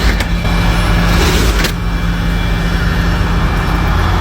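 Heavy-duty Peterbilt tow truck's diesel engine idling with a steady low hum, and a short sharp hiss about a second in.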